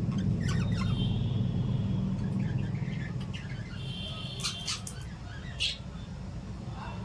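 Small pet parrots chirping: scattered short chirps and a few sharper squawks, the loudest about five and a half seconds in, over a steady low rumble.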